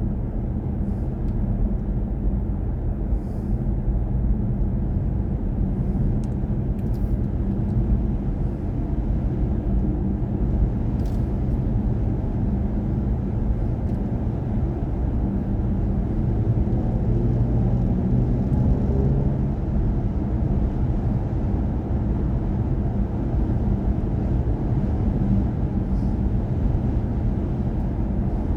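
Steady low road and tyre rumble inside the cabin of a moving BMW i4 M50 electric car, cruising at an even speed.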